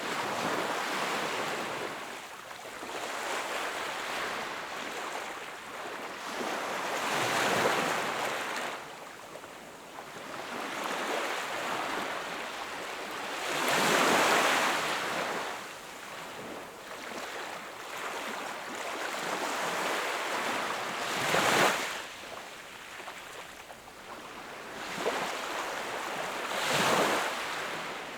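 Ocean waves breaking and washing up the shore, the rush swelling and ebbing every six or seven seconds. The loudest breaks come about halfway through and again about three quarters of the way in.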